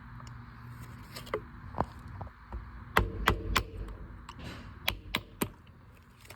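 Sharp clicks and taps of small metal parts and tools being handled during disassembly. Scattered single clicks, a louder cluster with a brief metallic ring about three seconds in, then three quick clicks near the end.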